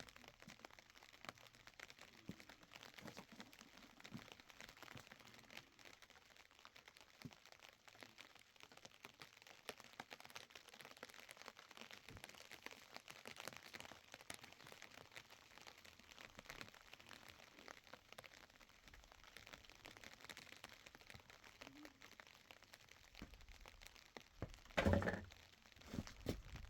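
Wood fire crackling with many small snaps, and a single louder knock near the end.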